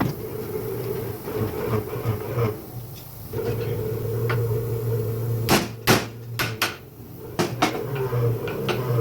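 A hammer striking metal during CV joint replacement work: about seven sharp blows in the second half, over a steady low hum.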